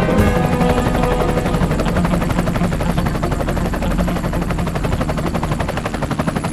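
Helicopter rotor blades chopping steadily in a fast, even beat.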